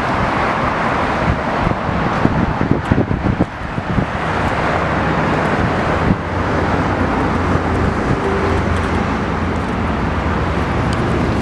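The 106 cubic inch V-twin of a 2013 Victory Cross Country Tour running through a Victory Performance touring exhaust. It is rougher and busier in the first few seconds, then settles into a steady idle in the second half.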